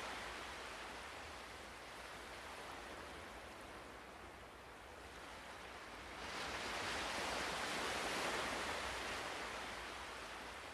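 Ocean waves washing on a shore: one wash fades out, then a new wave swells in about six seconds in and slowly recedes near the end.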